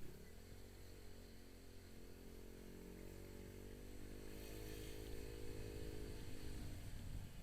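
Motorcycle engine pulling away: its pitch climbs sharply at the start, holds and rises gently as it runs, then drops away near the end.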